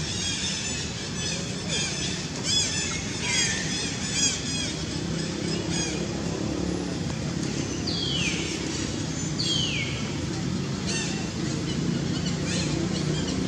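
Birds calling: repeated high chirps and a few clear whistles that fall in pitch, over a steady low hum of outdoor background.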